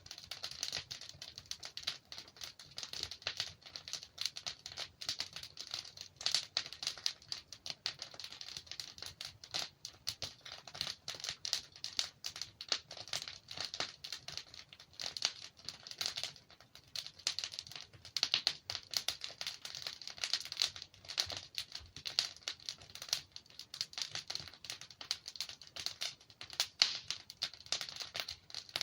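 Wood fire crackling: burning logs give a dense, steady run of small snaps, with a louder pop every few seconds.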